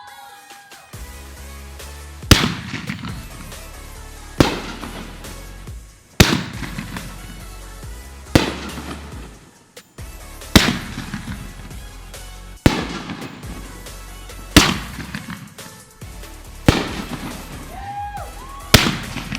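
Consumer fireworks going off, with sharp bangs about every two seconds, mixed with a music soundtrack that has a heavy bass.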